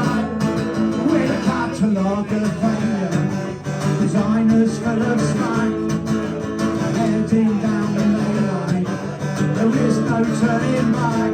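Acoustic guitar strummed in a punk song, played live.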